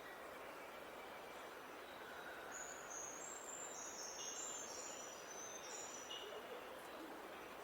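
A songbird singing a quick run of short, high notes at stepped pitches from about two and a half seconds in to about six seconds in, over a faint steady background hiss.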